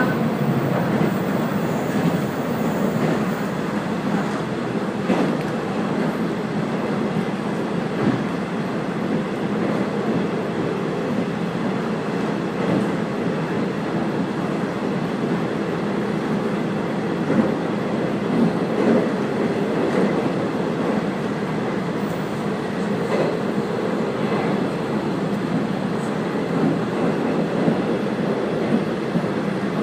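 A train running along the line, heard from on board: a steady running noise with a few scattered sharp clicks from the wheels over the track.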